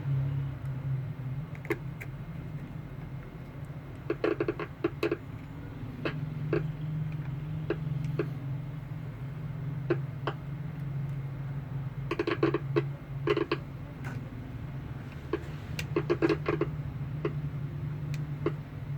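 Steady low hum with scattered sharp clicks and short clusters of clattering knocks, typical of small tools and parts handled on a repair bench.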